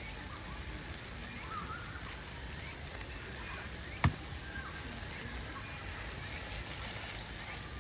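Campfire burning with a steady hiss and one sharp, loud pop of the wood about four seconds in.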